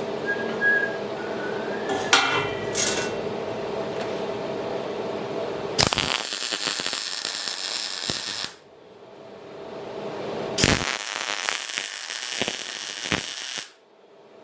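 Metalworking sounds: a steady hum with a few metal clinks, then two bursts of loud crackling noise, each about three seconds long, that start and stop abruptly.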